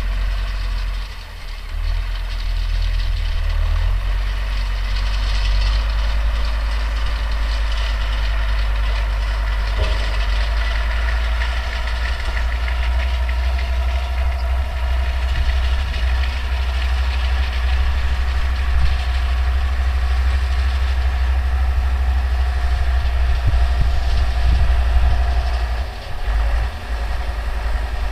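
Older Deutz tractor's diesel engine running steadily under load while driving a New Holland Cropcutter 644 round baler, the baler's machinery clattering along with it. The level dips briefly about a second in and again near the end.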